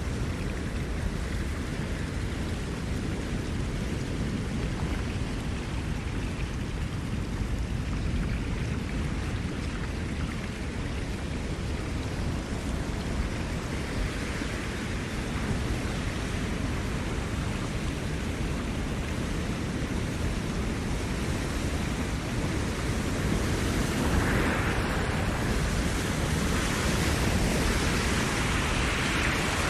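Ocean waves on a shore: a steady rushing wash of surf, growing louder and brighter from about 24 seconds in as a wave breaks and washes in.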